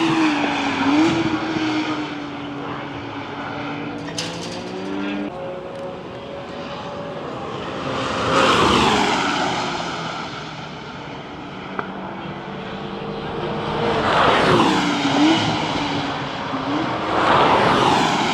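Race cars lapping a circuit, one car after another swelling up loud and falling away as it passes, several times over, with engine notes rising and falling in pitch between passes.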